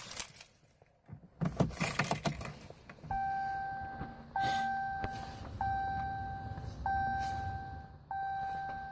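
Keys jangling and clattering, then a vehicle's dashboard warning chime dinging five times, about once every 1.2 seconds, each ding fading away.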